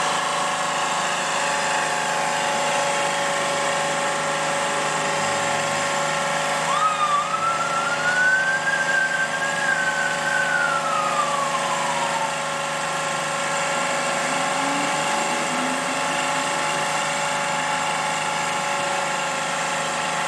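Large engine running steadily at high speed with a loud, constant whine. Partway through, a single whistle-like tone rises and then slowly falls away.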